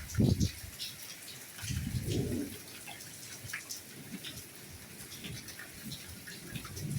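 Soft rainfall: a steady hiss with individual drops ticking. Two dull low thuds stand out, the louder one just after the start and another about two seconds in.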